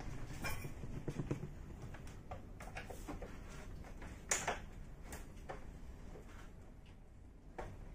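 Scattered clicks and light knocks of hands and tools working on an air conditioner's casing while it is being taken apart, with one sharper click about four seconds in.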